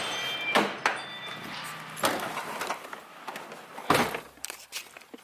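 A car door being shut, with a few sharp knocks and thuds spread through a few seconds over a fading hiss.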